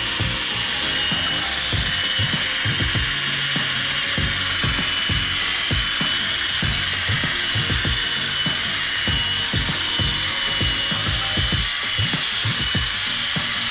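Power drill spinning an 800-grit sanding pad against a plastic headlight lens. A steady high motor whine runs over an irregular, rapid rubbing rattle from the pad.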